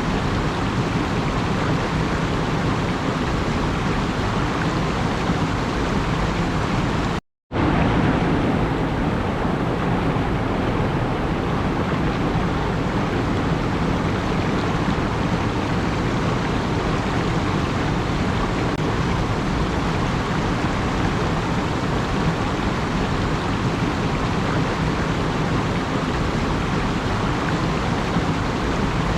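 Steady, even rushing noise, cut to silence for a moment about seven seconds in.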